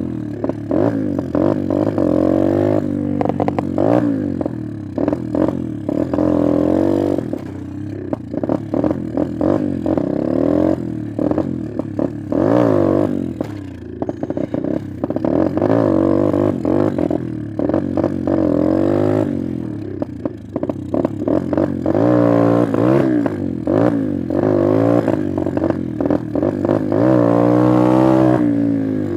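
Apollo X19 pit bike's single-cylinder engine revving up and down again and again while ridden, the throttle blipped as the clutch is feathered for clutch-up wheelies, with intermittent clatter. The strongest revs come a few seconds before the end. It runs on a newly fitted Mikuni carburetor that still needs adjusting, and the throttle response feels off to the rider.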